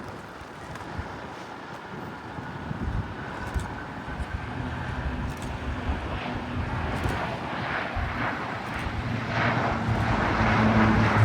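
Jet airliner engines, growing steadily louder, with a deep hum building up toward the end.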